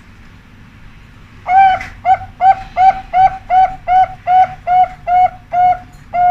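Zebra dove (perkutut) singing: a string of about a dozen short, evenly spaced coos, roughly three a second, starting about a second and a half in, then one long held final note near the end, the 'ujung' end note prized in perkutut song contests.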